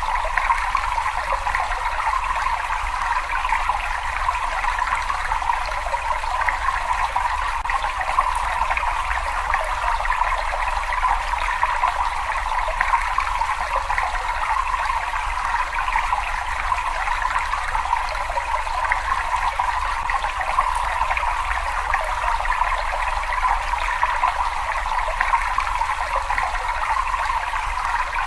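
Water running and trickling continuously in a cave, a steady, even splashing without pauses.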